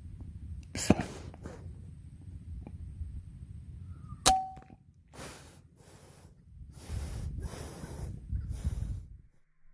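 Air rifle firing. There is a sharp crack about a second in, then a second, louder crack about four seconds in with a short metallic ring. A run of rustling, hissing bursts follows.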